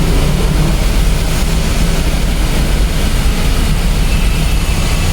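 Ford Everest's common-rail diesel engine idling steadily, running again after its crankshaft sensor connectors were dried and cleaned.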